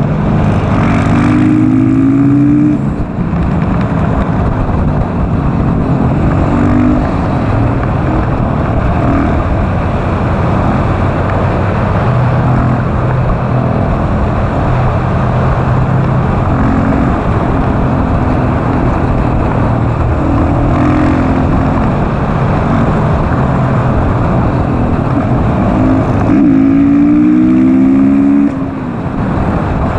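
KTM SMC R supermoto's single-cylinder engine under hard acceleration, its revs climbing again and again through the gears, with short drops in level at the shifts near 3 seconds and near the end. A steady rush of wind runs underneath.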